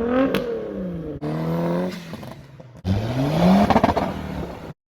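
Car engines revving and accelerating in three short passes that cut abruptly from one to the next. The pitch falls as one car changes gear and climbs steeply as another accelerates hard.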